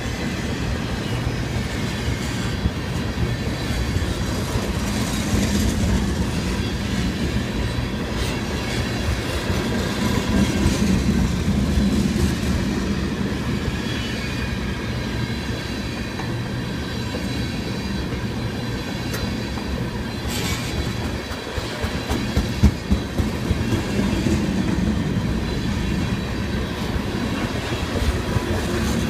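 A long freight train rolling steadily past: a continuous rumble of the cars with wheels clicking over the rail joints.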